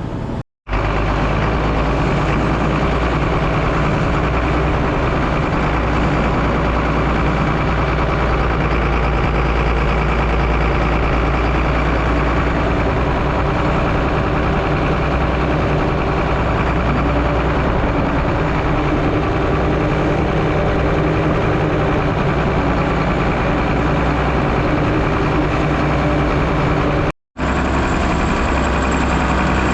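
John Deere 4840 tractor's turbocharged six-cylinder diesel running steadily as the tractor drives back and forth packing down fill dirt. The sound cuts out briefly twice, about half a second in and near the end.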